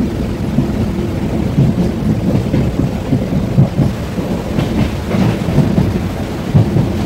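Steady low rumble of a moving passenger train heard from inside the coach: the carriage running on the track.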